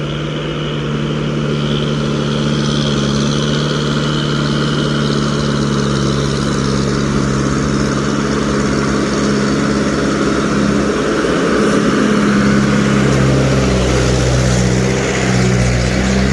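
Medium-duty truck engine running close by, getting louder over the first few seconds and again near the end.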